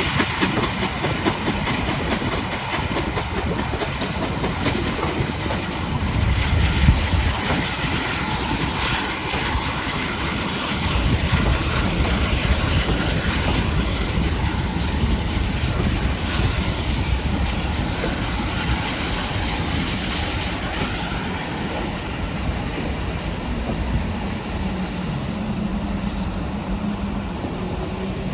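Steam-hauled train running along the line behind ex-GWR 56xx 0-6-2T tank engine 5619: a steady rumble and rattle of wheels on the rails, with some steam hiss. A low hum comes in near the end.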